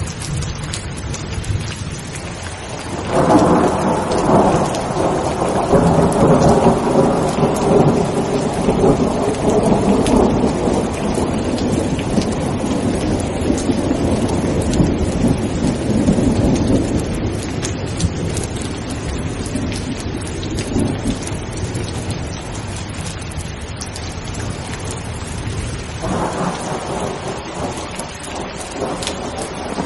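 Steady heavy rain with thunder. A long rolling peal begins about three seconds in and dies away over some fifteen seconds, and another peal starts near the end.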